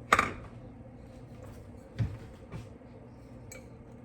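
Kitchen handling noises: a sharp clatter right at the start, then a dull knock about two seconds in and a few light clicks, over a steady low hum.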